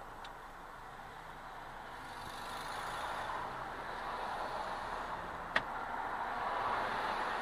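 Steady road-vehicle noise that swells slightly partway through, with a single sharp click about five and a half seconds in.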